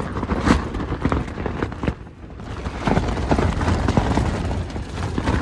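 Gale-force wind battering a small tent: the fabric slaps and cracks irregularly over a steady low rumble of wind, with a louder gust near the end.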